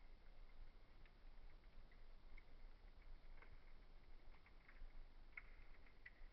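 Faint wood fire crackling in a fireplace: sparse small pops and snaps, a few slightly sharper ones in the second half, over a low steady hum.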